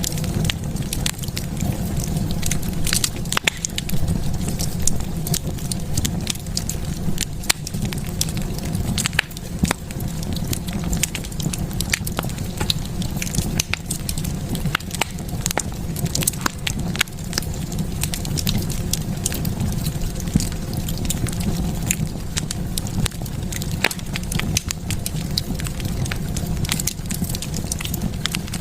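Wood fire burning in a fireplace, crackling with frequent irregular pops over a steady low rumble of flame.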